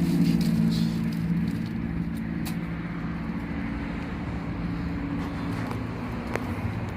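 An engine running with a steady hum that fades away after about two seconds, leaving a steady outdoor rumble with a couple of faint clicks.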